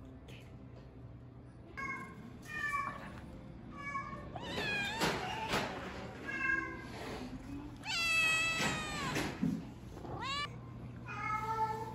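A domestic cat meowing repeatedly, about eight short meows, with one longer drawn-out meow that falls in pitch about eight seconds in.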